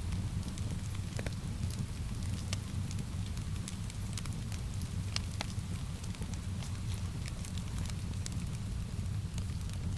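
Wood fire in a fireplace crackling, with irregular sharp pops and snaps over a steady low rumble. Rain hisses steadily behind it.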